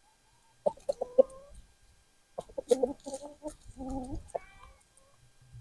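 Hens clucking in three short bursts as they eat a handful of dried black soldier fly larvae tossed to them as a treat.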